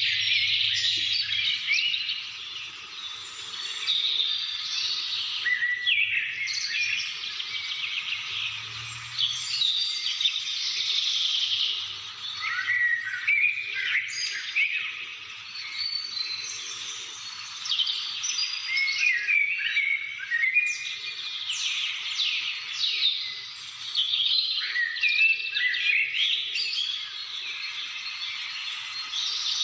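Many birds calling and singing at once in a dense chorus of chirps and short whistles that swells and eases throughout.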